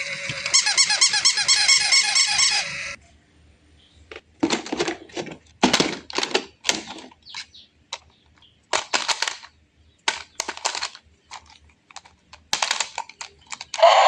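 A rapid run of high squeaky chirps for about two seconds, then scattered clicks and rattles with short quiet gaps.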